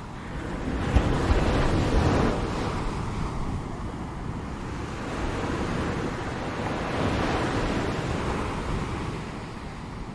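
Ocean surf: waves breaking and washing ashore in two swells, the first and louder about a second in, the second around six to eight seconds, each easing back as the water recedes.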